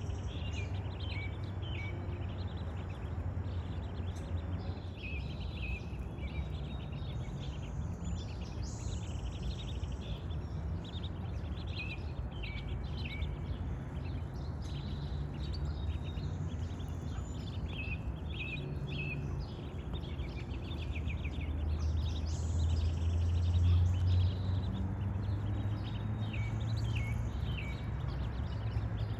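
Small birds chirping again and again over a steady low rumble that swells about three quarters of the way through.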